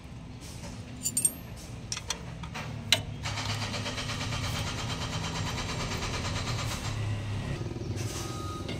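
A few sharp metal clinks of tools on the motorcycle's parts in the first three seconds, then a small engine running steadily from about three seconds in.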